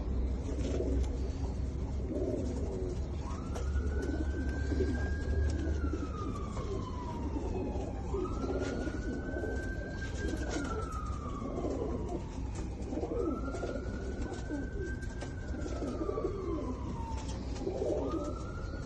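Domestic pigeons cooing over and over in low, repeated phrases. Behind them a siren-like wail sweeps up, holds and slowly falls, repeating about every five seconds.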